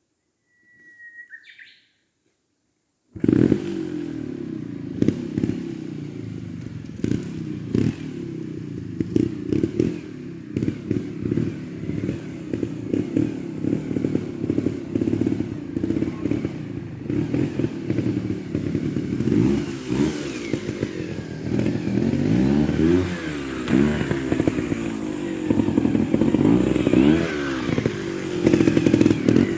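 Trials motorcycle engine cutting in suddenly about three seconds in, then running with the revs repeatedly rising and falling, with clatter and knocks over it.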